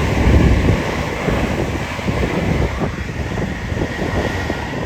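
Wind buffeting the microphone over the rumble of a passing Class 222 Meridian diesel train.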